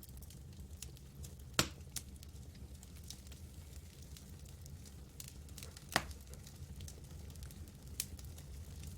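Campfire crackling: scattered small snaps over a low steady rumble, with a louder pop about a second and a half in, another about six seconds in, and a smaller one near the end.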